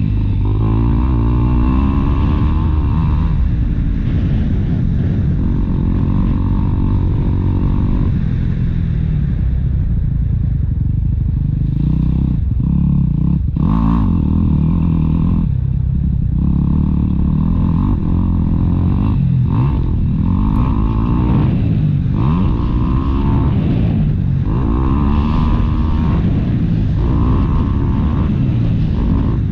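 Motocross bike engine running hard, its pitch rising and falling over and over as the throttle is opened and closed.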